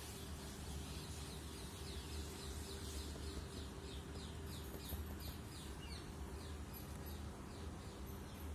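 A bird chirping repeatedly, short quick downward notes about three to four a second through the middle of the stretch, over a steady low hum.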